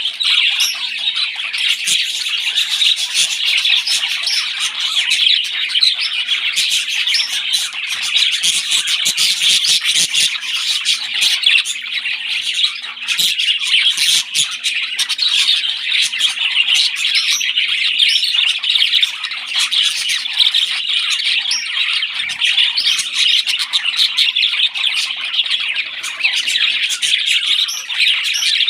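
Parrots squawking and chirping without a break, a dense high chatter of short raspy calls, as from chicks begging while being fed.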